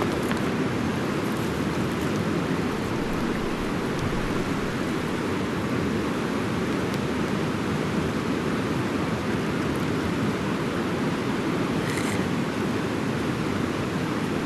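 Fast-flowing mountain river, a steady rush of water with the most weight low down.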